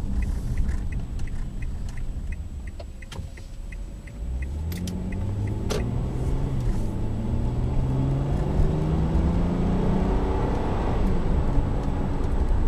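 The 2012 Kia Sorento SX's V6 pulls the SUV away under acceleration from about four seconds in, its engine note rising steadily in pitch, heard from inside the cabin. Before that comes a rapid, even ticking.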